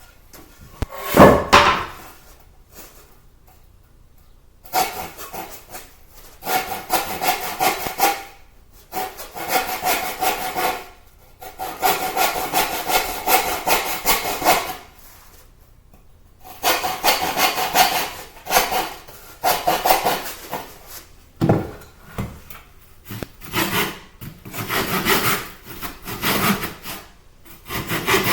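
Hand saw cutting through a wooden board in runs of quick back-and-forth strokes, with short pauses between runs. A sharp knock about a second in is the loudest sound.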